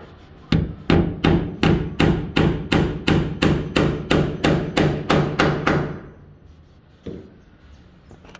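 Hammer driving a nail into wood: a quick run of about fifteen even blows, about three a second, then a pause and one lighter blow near the end.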